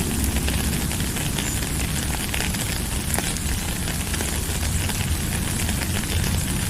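Steady rainfall, an even hiss of rain with a deep low rumble underneath and scattered small pattering ticks of drops.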